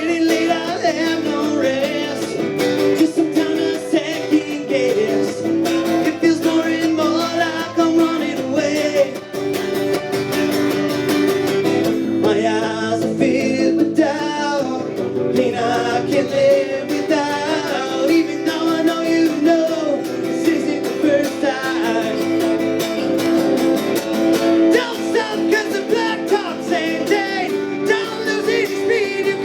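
A band playing live country-rock music led by guitar.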